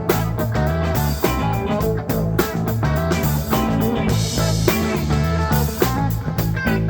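Rock band playing an instrumental passage: guitar lines over a stepping bass line and drums.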